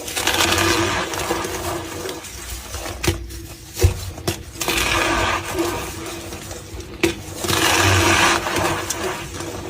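Gym chalk being crushed and squeezed, a squeaky crunching in three long rushes with a few sharp cracks between them.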